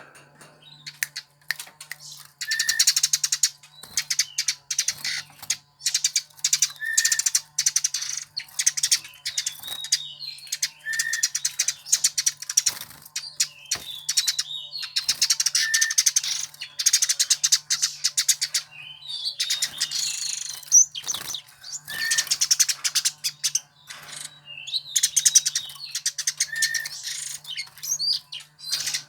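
Eurasian tree sparrow (burung gereja) singing: fast runs of high chirps in phrases of a couple of seconds, repeated about every four seconds, several of them opening with a single lower note. A faint steady low hum lies underneath.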